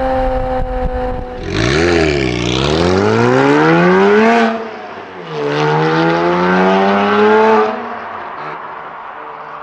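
Porsche Boxster S with a Capristo exhaust accelerating hard: the engine note climbs steadily for about three seconds, breaks off briefly at a gear change, and climbs again for about two seconds before easing back to a quieter steady note.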